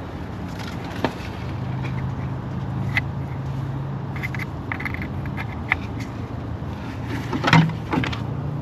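Scattered clicks and knocks of plastic engine parts and an intake hose being handled and fitted back on, the loudest cluster near the end, over a steady low hum.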